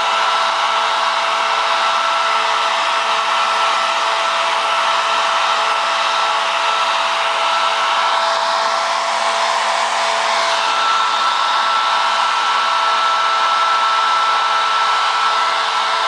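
Hand-held hair dryer blowing steadily, a even rush of air with a motor whine over it; about ten seconds in the whine changes pitch slightly.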